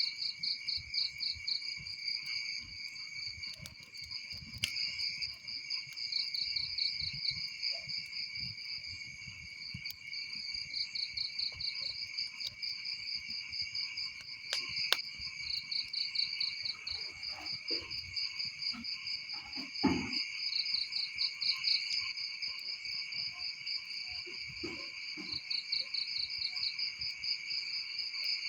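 Crickets chirping in a steady chorus, one voice in rapid pulsed trills over a continuous higher ring. Underneath, faint scattered pops and crackles, which fit a burning wood fire, and a short falling sound about twenty seconds in.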